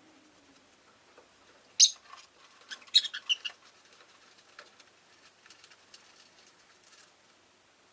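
Rosy-faced lovebirds calling: one sharp, shrill call about two seconds in, then a quick cluster of high chirps a second later, with faint scattered ticks for the rest of the time.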